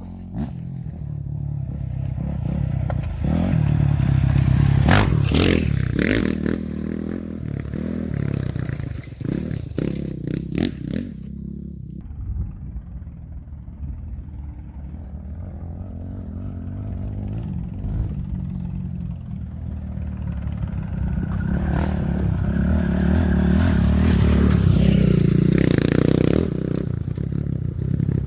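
Off-road Trophy Truck race engines passing at speed, with dirt and stones clattering under the tyres. The sound swells to a peak about five seconds in and eases off, then builds again to a longer, louder pass near the end.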